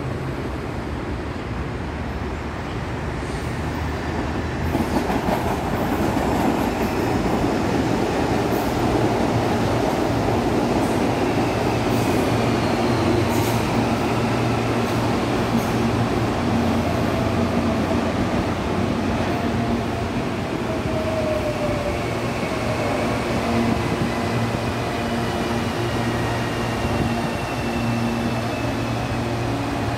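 Electric suburban trains running through a covered station platform. The wheels rumble steadily on the rails, and the rumble swells after a few seconds as a train draws alongside. A whine falls in pitch in the second half as a train slows into the platform.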